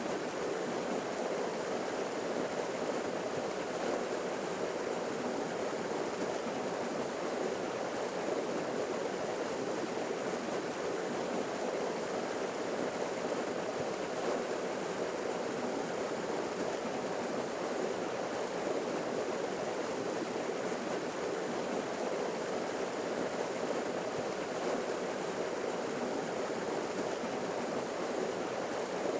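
Steady rushing of a forest waterfall: water pouring and splashing continuously, with no breaks or changes.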